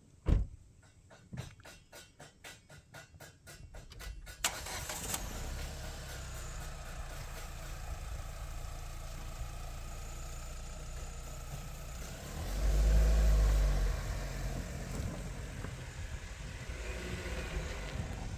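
A car engine cranking with a rapid regular beat for about four seconds, then catching and running steadily, with a brief loud low rev about twelve seconds in.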